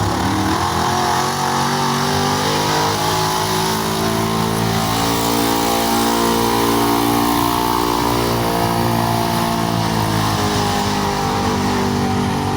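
A pulling truck's engine revving hard under load: the pitch climbs at the start, holds high and steady through the middle, then drops away near the end as the run finishes.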